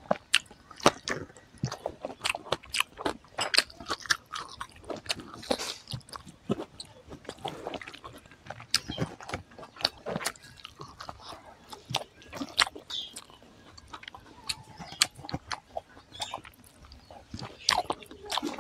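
Close-miked eating: biting and chewing cooked leafy-green stalks, heard as a string of sharp, irregular mouth clicks and crunches.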